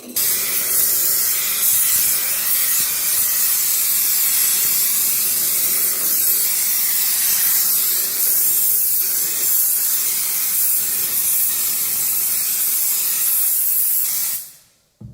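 Loud, steady hiss of a pressurized jet. It starts abruptly and fades out just before the end.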